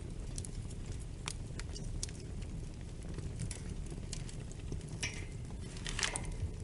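Wood fire burning in a fireplace: a steady low rumble of flames with scattered crackles and pops, and a short flurry of sharper pops about five and six seconds in.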